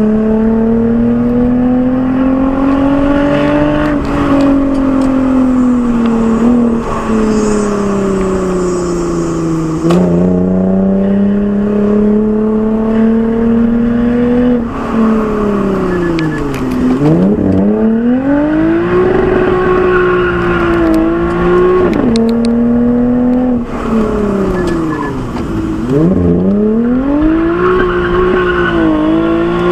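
Lexus IS with an Fi aftermarket exhaust, its engine pulling hard through the gears: the exhaust note climbs, then drops sharply at upshifts about 4, 10 and 22 seconds in. Twice the revs fall away and climb back, as if lifting off and re-accelerating for bends.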